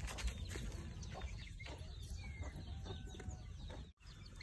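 Birds chirping and calling over a steady low rumble; the sound drops out for a moment near the end.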